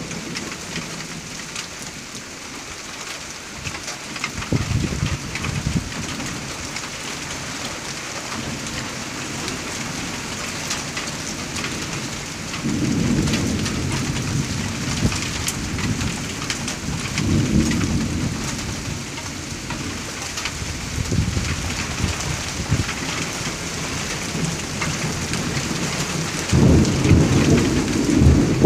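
Rain falling steadily, with low rumbles of thunder swelling several times, the loudest near the end.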